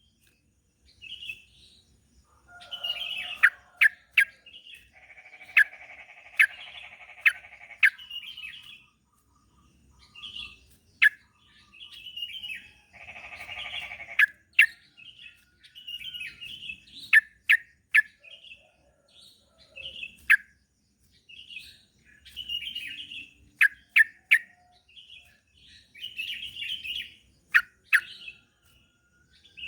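Yellow-vented bulbul (trucuk) singing and chattering in repeated bursts of short bubbly phrases and sharp downward-sweeping chirps, with two longer buzzy, rattling passages.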